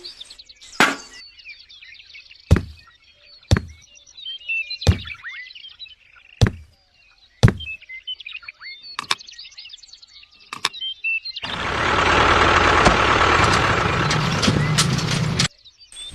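Birds chirping in the background, broken by about eight sharp hits a second or so apart. Then comes a loud, dense rushing noise lasting about four seconds that cuts off suddenly.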